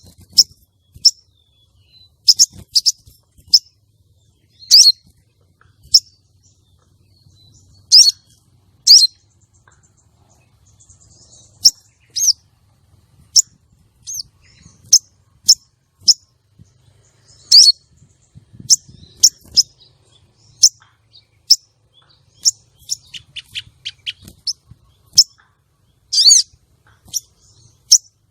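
Female sogon calling: short, sharp, high chirps repeated at irregular intervals, with a quick rattling run of notes near the end. This is the call used as a lure to draw male sogon and bring them into breeding excitement.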